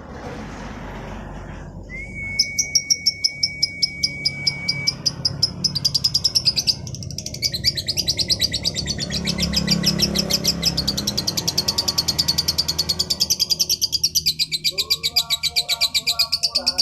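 Female lovebird singing a long, fast chattering trill of sharp high chirps, several a second, that runs on without a break. A steady high whistled note sounds before the trill starts, and a lower call comes in near the end.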